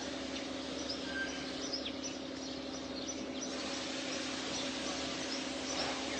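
House sparrows chirping, short high notes scattered throughout, over an even background hiss and a steady low hum.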